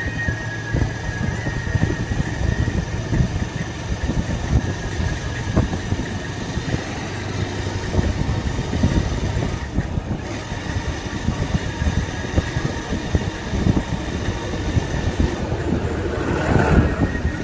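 Motorcycle engine running on the move, with a steady rumble of road and wind noise; a louder rush of noise swells briefly near the end.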